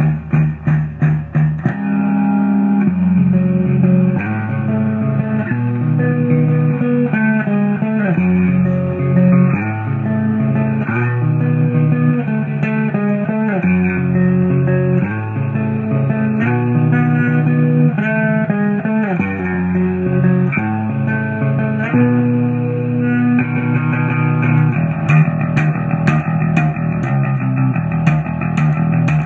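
Instrumental rock music on electric guitar and bass guitar. Short chugging strokes in the first two seconds give way to held notes, with guitar lines sliding in pitch. Sharp high ticks join in near the end.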